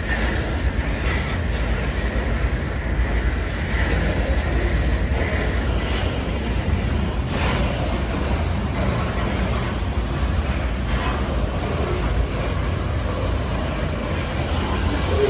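Coal train's freight cars rolling past at steady speed, a continuous rumble of wheels on rail with occasional faint clicks at rail joints.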